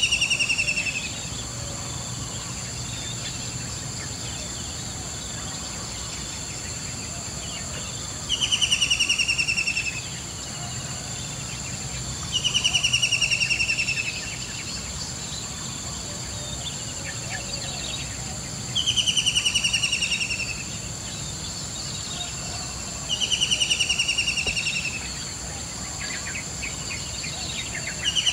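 A bird calling over and over, each call a loud rapid trill that falls in pitch over about a second and a half, repeating every four to six seconds. Under it runs a steady high-pitched insect drone.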